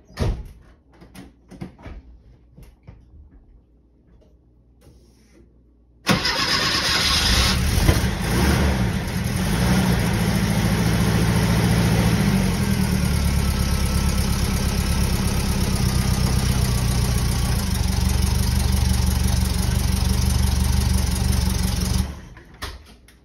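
A 1965 Volkswagen Type 3 notchback's rear-mounted air-cooled flat-four is cold-started after four days parked. After a few light clicks and knocks, it fires about six seconds in and runs at a steady idle. It cuts off suddenly near the end.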